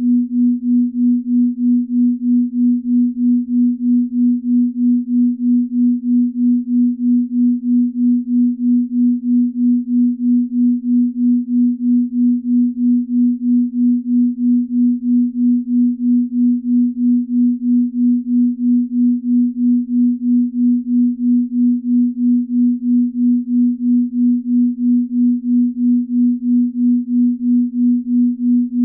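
Binaural-beat tone: a steady pure tone a little above 200 Hz that swells and fades evenly about two and a half times a second, without change.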